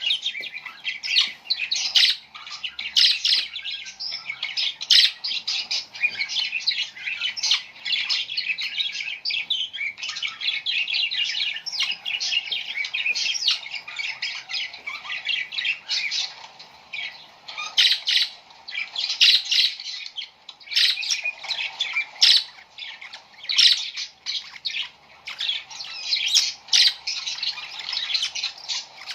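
Many small birds chirping and squawking together in a dense, continuous, high-pitched chatter.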